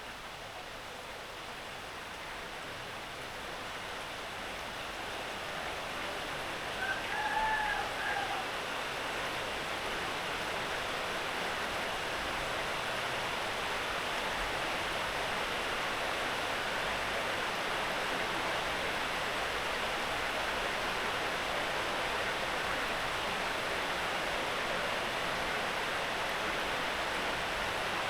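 Steady rain, a dense even hiss that grows gradually louder over the first ten seconds. A brief pitched call sounds once about seven seconds in.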